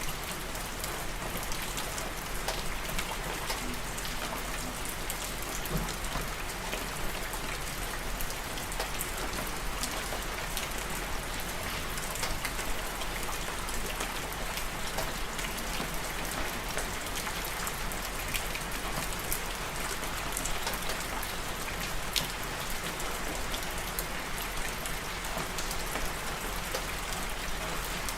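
Steady rain falling and pattering on a surface, a dense hiss dotted with the ticks of single drops.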